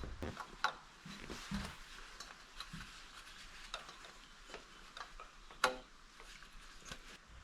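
Scattered light clicks and taps of small hand-tool work at irregular intervals, with one sharper click about five and a half seconds in.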